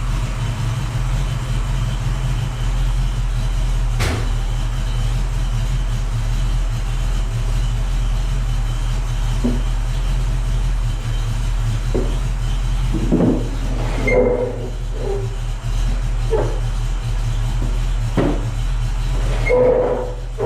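1967 Mustang's 331 stroker small-block V8 idling steadily, with a few short knocks and clatters in the second half.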